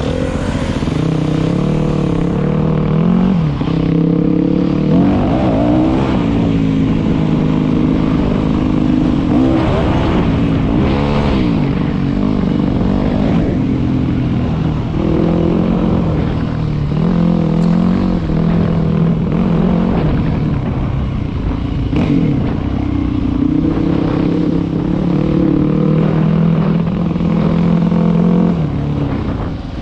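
Dirt bike engine running while riding a bush trail, the engine pitch rising and dropping several times with the throttle, with steadier stretches between.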